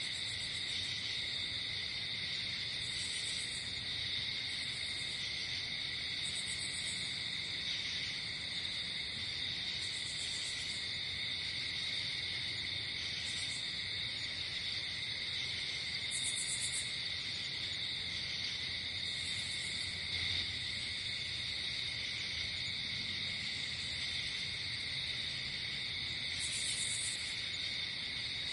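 Night insect chorus of crickets: a steady, unbroken trill, with short, very high buzzy chirps breaking in every second or few.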